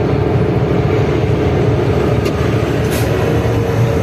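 Passenger train running across a long bridge, heard from the open end of a carriage: a steady rumble of wheels on rail with a constant hum and wind-like noise. Two faint, brief clicks come in the second half.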